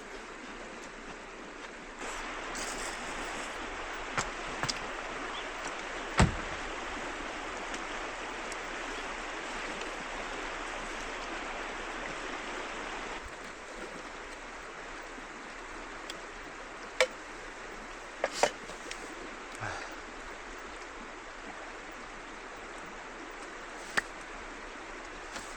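River water running steadily, louder for the first half, with a few sharp knocks and clicks on top, the loudest about six seconds in.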